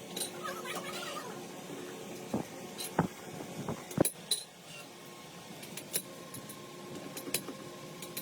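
Metal tools and engine parts clinking and knocking, a few scattered sharp strikes over a low steady background.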